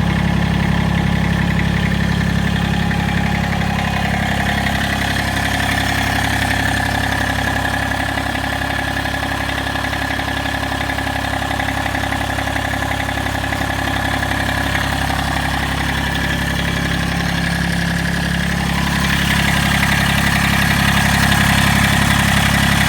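Massey Ferguson 1710 compact tractor's diesel engine idling steadily after a cold start, growing a little louder near the end.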